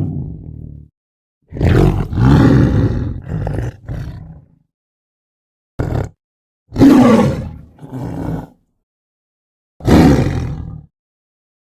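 Tiger roaring and growling in separate loud bouts, four or five of them, with complete silence between.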